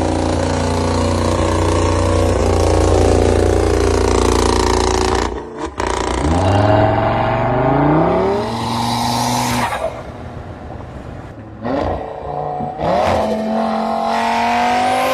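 Audi RS3's five-cylinder engine in several cut-together clips: a steady high-revving note for about five seconds, then accelerating with the pitch rising in two steps, then shorter rises in revs near the end.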